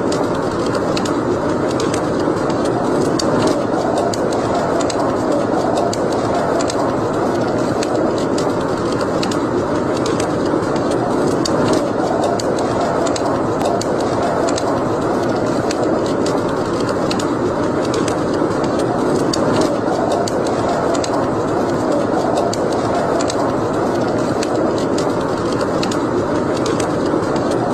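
Wood fire burning in a fireplace: a steady rushing noise with frequent sharp crackles and pops.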